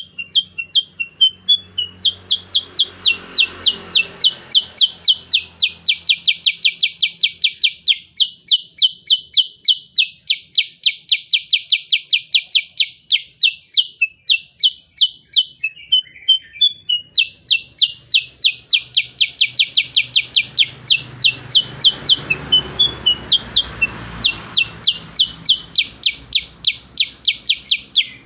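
Cucak kurincang, a bulbul, singing long rolling runs of rapid, loud, repeated high notes, about five a second, broken now and then by short warbled phrases.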